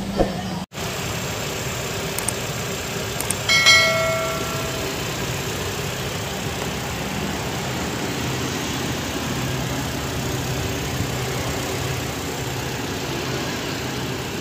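Petrol engine of a Toyota Hilux idling steadily after a tune-up and carbon clean, with a single short metallic ring about three and a half seconds in.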